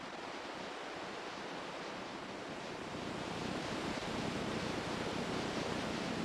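Steady rushing water noise, growing slightly louder.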